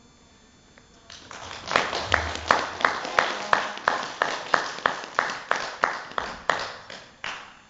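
Audience applause, with loud claps in an even rhythm of about three a second, starting about a second in and stopping just before the end.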